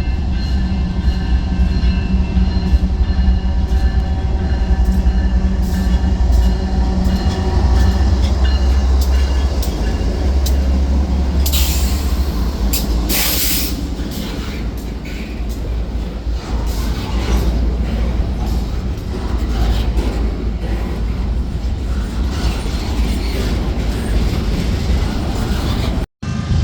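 Train passing close by: a steady low rumble with wheels clicking over rail joints, and two short high-pitched bursts about twelve and thirteen seconds in. The sound cuts off suddenly near the end.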